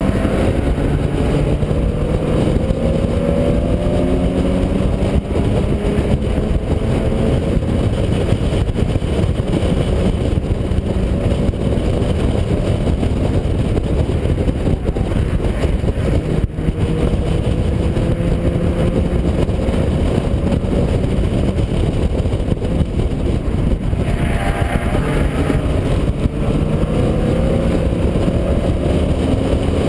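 Car engine on a race track, heard through an onboard camera, pulling hard with its note climbing slowly in pitch over long stretches and changing once near the end. Heavy wind and road noise sit under it throughout.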